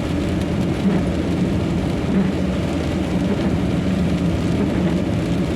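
Steady drone of a truck's engine and road noise from inside the cab while driving in heavy rain.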